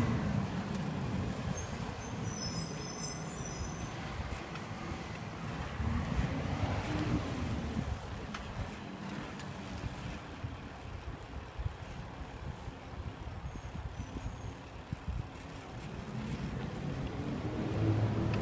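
Garbage truck's diesel engine running, its pitch rising and falling back twice, about six seconds in and again near the end.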